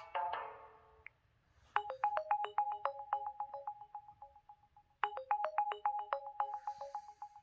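The tail of one LG X300 ringtone dies away in the first second. After a short gap another LG X300 ringtone begins: fast repeated electronic notes on one high pitch with lower notes between them, its phrase starting over about three seconds later.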